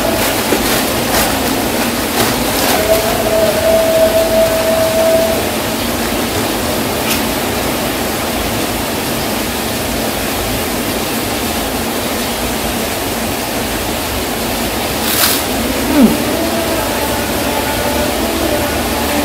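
Heavy rain pouring down: a loud, steady, noisy hiss of downpour. A few sharp clicks come in the first seconds, and one brief sharp knock about sixteen seconds in.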